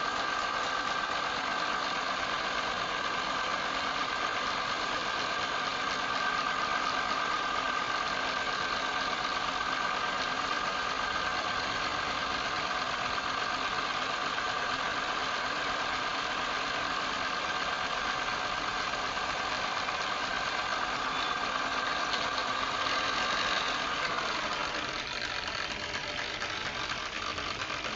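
Wood lathe running steadily, its motor giving a steady whine over a rushing hum. Near the end the whine fades and the sound drops a little.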